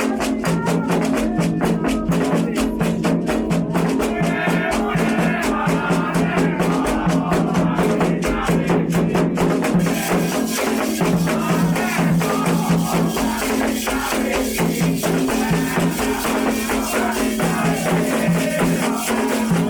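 Candomblé ritual music: hand drums and rattles playing a fast, steady rhythm.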